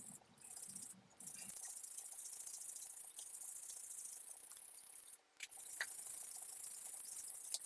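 Aerosol spray-paint can spraying: a steady high hiss in long bursts with a short break about five seconds in, and a couple of light clicks near the end.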